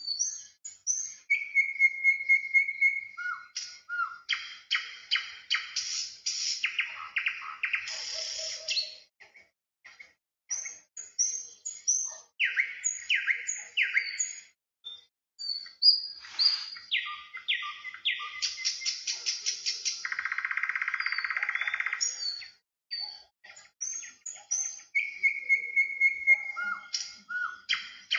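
Several songbirds calling and singing: quick chirps, fast trills and a few held whistled notes, with a buzzy call lasting about two seconds around two-thirds of the way through.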